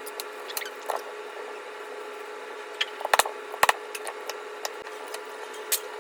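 Wet squishing and scattered clicks as a kabocha squash is cut open and its seeds scraped out, with two sharper knocks a little past the middle. A steady hum runs underneath.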